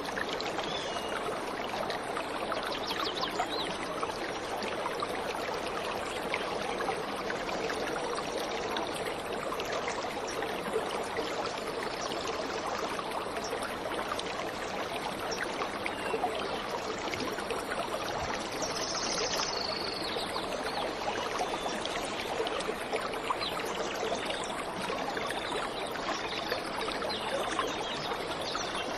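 Waterfall water running steadily in an even rush, with a short high bird call about two-thirds of the way through.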